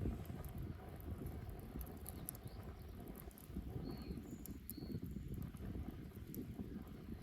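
Wood bonfire burning: a steady low rumble of flames with scattered small crackles and pops of the burning wood. Two brief high whistles come about four and five seconds in.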